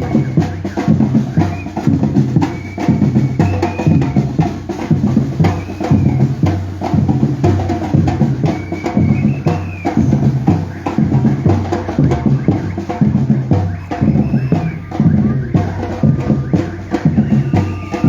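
Batucada percussion group drumming: bass drums and snares playing a steady, driving rhythm.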